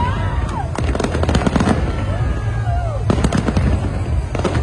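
Fireworks display going off: a rapid, dense run of bangs and crackles over a steady low rumble, with a few short sliding whistles.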